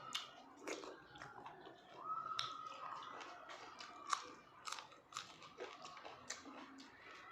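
Close-up chewing and biting on meat, with irregular sharp clicks and crunches.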